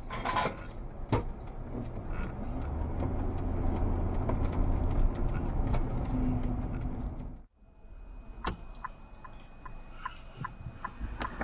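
A car's turn signal ticking steadily over low cabin rumble from the engine and road. The sound cuts out abruptly about seven seconds in, then the ticking resumes.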